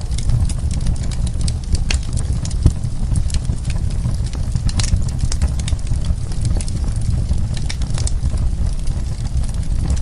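Wood fire burning in a fireplace: a steady low rumble of the flames with dense, irregular crackles and pops from the burning wood.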